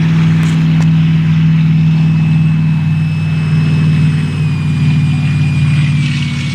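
Electric ducted-fan RC jet on the ground after landing, its fan whining steadily and dropping in pitch in two steps as the throttle comes back. Under it runs a steady low hum.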